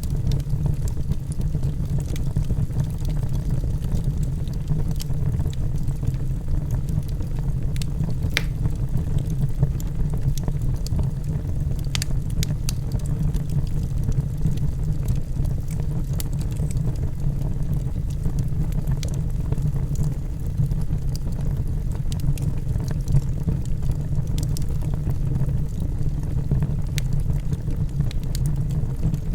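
Log fire burning in a fireplace: a steady low rumble of flames with scattered sharp crackles and pops from the burning wood, the clearest about 8 and 12 seconds in.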